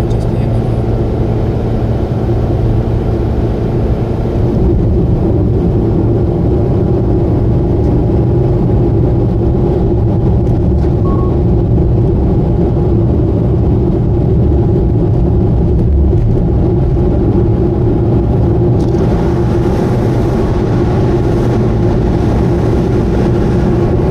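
Subaru Vivio running steadily at expressway speed, a constant low drone of engine and road noise. More hiss comes in near the end.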